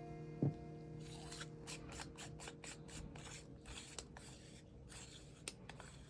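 A knock about half a second in, then a quick run of short rasping, rubbing strokes as the front element group of a Nikon Ai 28mm f/2.8 lens is unscrewed from its metal barrel.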